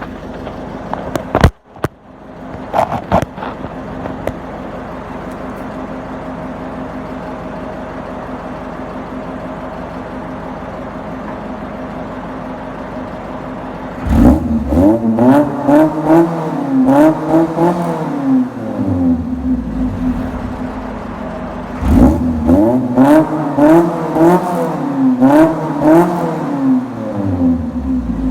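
Ford Fiesta XR2 engine through its exhaust, idling steadily, then revved twice in a series of quick throttle blips, pitch climbing and falling and settling back to idle between and after. A few sharp knocks sound in the first few seconds.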